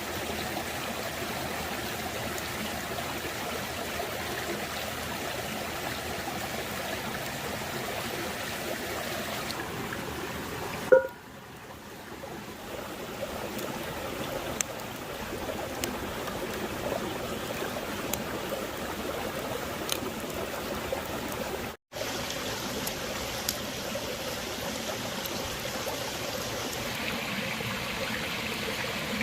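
Steady rushing of running water, like a stream. About eleven seconds in, a sharp click is followed by a sudden drop in level that builds back over a few seconds, and near the middle there is a brief complete cut-out.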